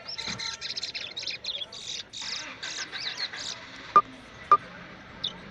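A towa-towa (chestnut-bellied seed finch) singing a fast, dense run of high chirps and trills that breaks off after about three and a half seconds, then starts again near the end. Two sharp, loud clicks a half-second apart fall in the gap.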